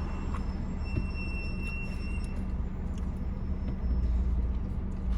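Steady low rumble with a faint hum, as of a running vehicle.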